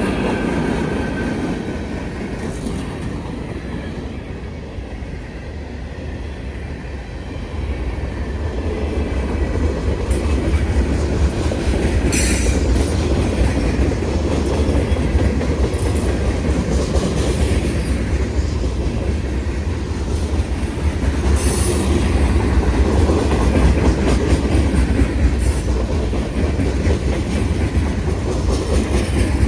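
Norfolk Southern freight train cars rolling past, a steady heavy rumble with wheels clacking over the rail joints, growing louder after several seconds. A few brief high wheel squeals break through.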